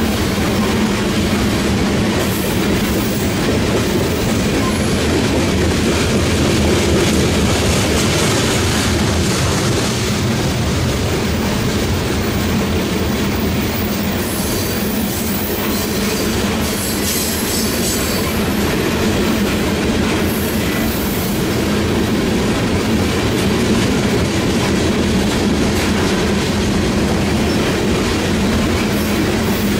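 Open-top hopper cars of a long BNSF freight train rolling past at speed: a steady, loud rumble of steel wheels on the rails with a clatter over the joints. A thin, high wheel squeal comes and goes about halfway through.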